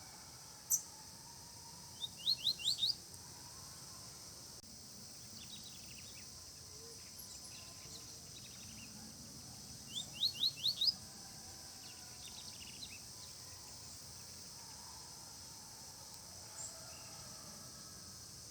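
Double-collared seedeater (coleiro) calling: a single sharp note, then twice a quick run of five rising whistled notes, the runs about eight seconds apart. A steady high insect hiss runs underneath.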